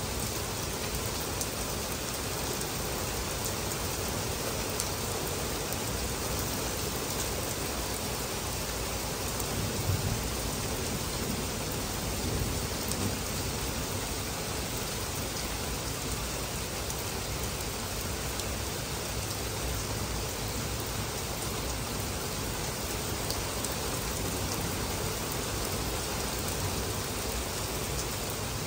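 Heavy rain falling steadily on grass and pavement, an even hiss, with a brief low rumble about ten seconds in.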